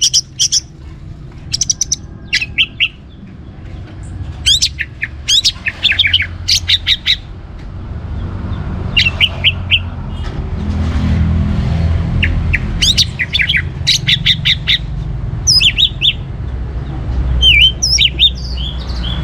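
Orange-headed thrush singing in short bursts of rapid, high, sweeping notes, with pauses of one to three seconds between phrases, over a low background rumble.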